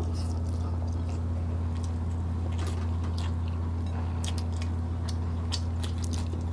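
Close-up eating sounds: chewing, with frequent small wet mouth clicks and smacks, as grilled chicken and fried bean-sprout spring rolls are eaten by hand. A steady low hum runs underneath.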